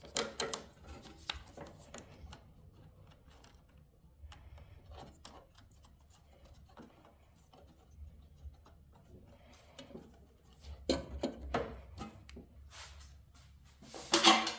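Hand-work on a garden tractor's battery connections: scattered small clicks, scrapes and rubbing of metal parts as the cables are fitted and tightened. There is a louder cluster of knocks and clicks about eleven seconds in and again just before the end.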